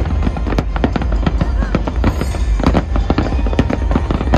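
Fireworks going off in rapid succession: many sharp bangs and crackles over a continuous low rumble, with music and voices underneath.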